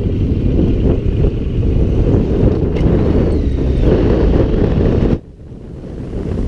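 Wind buffeting the microphone on a moving motorcycle: a loud, steady low rumble of rushing air. It drops suddenly about five seconds in to a quieter rush that slowly builds again.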